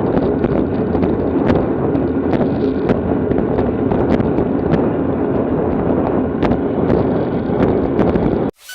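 Steady wind rushing over the microphone of a camera riding along in a bicycle race, with a few sharp clicks scattered through it. The sound cuts off abruptly near the end.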